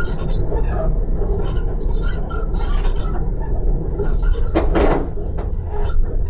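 Passenger train running, heard from inside the carriage: a steady low rumble from the wheels on the rails, with a short, louder rush of noise a little past the middle.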